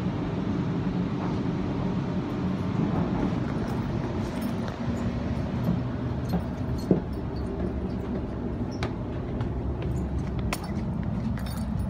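Steady interior rumble of a moving double-deck electric passenger train, heard from inside the carriage. A few sharp clicks and clinks cut through it, the loudest about seven seconds in.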